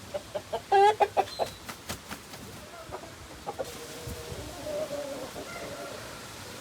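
Aseel chickens clucking: a quick run of short, sharp clucks in the first two seconds, the loudest a brief squawk just under a second in, followed by softer drawn-out calls.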